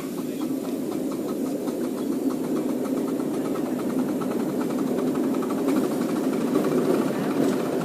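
Miniature railway train running along its track: a steady rumble of wheels on rails with a fast, fine rattle, growing slightly louder as it goes.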